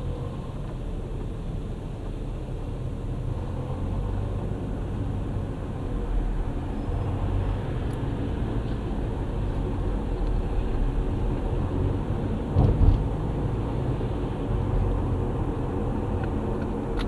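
Engine and road noise inside a moving vehicle's cabin, a steady low rumble, with one brief loud thump about two-thirds of the way through.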